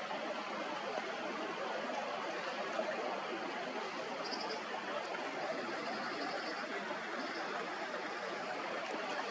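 Fast-flowing mountain stream rushing steadily over rocks, with a few faint high-pitched notes over it in the middle.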